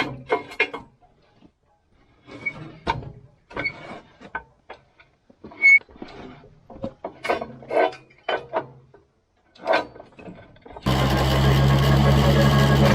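Scattered short knocks, clicks and rattles with silent gaps between them for about ten seconds. Near the end a David Brown 30 tractor engine cuts in suddenly and runs steadily.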